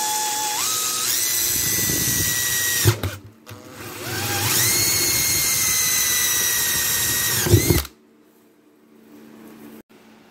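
Power drill run twice, its whine climbing in steps to full speed and holding there. Each run stops with a short knock, the first about three seconds in and the second near eight seconds.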